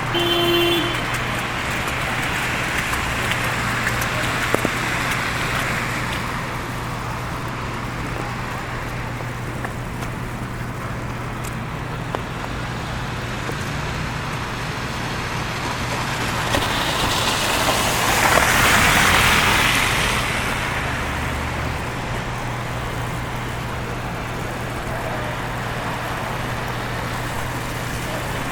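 City street traffic with a steady low hum, and a vehicle swelling up and passing by about 17 to 21 seconds in. A short tone sounds right at the start.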